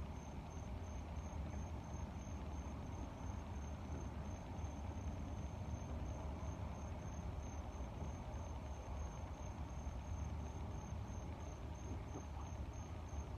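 A cricket chirping steadily, about three to four high chirps a second, over a low steady rumble of air.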